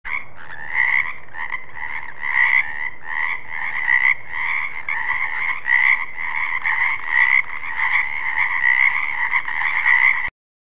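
Frog croaking in a rapid, unbroken run of pulsed calls, swelling louder about once a second. It cuts off suddenly near the end.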